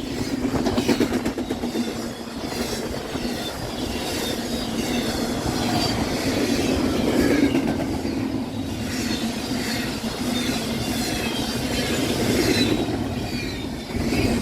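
Freight cars of a CSX train passing close at about 50 miles an hour: a loud, continuous rushing roar with wheels clattering over the rail joints and faint, high wheel squeals.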